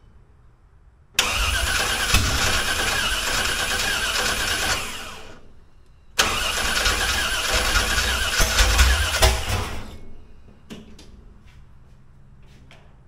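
Chevrolet small-block V8 cranked by its starter in two spells of about three and a half seconds each, fed only by gasoline poured down the intake with the fuel pump disconnected. It does not catch and run, and the second spell ends in louder, uneven thumps. The owner says it sounds like it's out of time.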